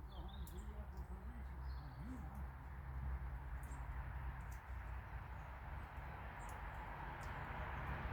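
A few faint bird chirps in the first couple of seconds over a steady low outdoor rumble, which swells toward the end.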